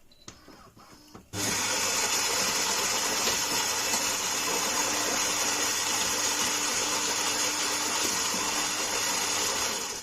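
Philips 5400 Series bean-to-cup espresso machine's built-in grinder running. It starts abruptly about a second in, runs steadily for over eight seconds and stops suddenly at the end, with a few light clicks just before it starts.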